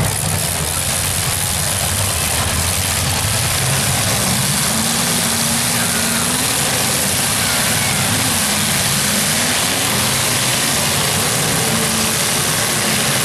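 Several demolition derby cars' engines running and revving together: a loud, steady engine din with several pitches wavering up and down.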